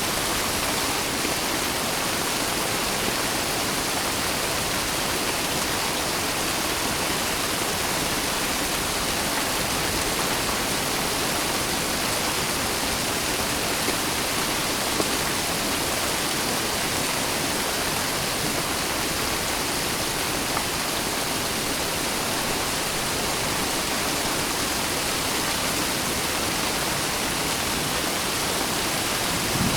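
Steady rain, an even, unbroken hiss with a few brief, slightly louder ticks.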